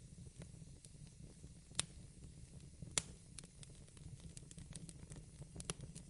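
Fireplace fire crackling: scattered small pops over a low steady rumble, with two sharper snaps about two and three seconds in.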